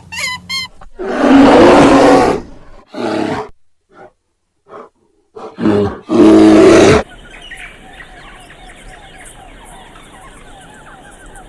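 A big cat roaring: a long rough roar, a shorter one, then two more close together, each loud with a low throaty core. Near the start a goose or duck honks briefly; after the roars, birds chirp against a steady outdoor background.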